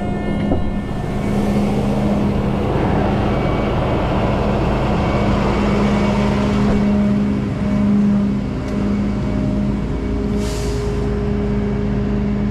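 Rollback tow truck's engine running with a steady low hum, with a rougher hiss in the middle and a short hiss about ten seconds in.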